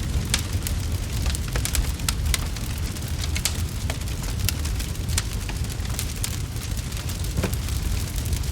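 Wood fire crackling, with frequent sharp pops at irregular intervals over a steady low rumble.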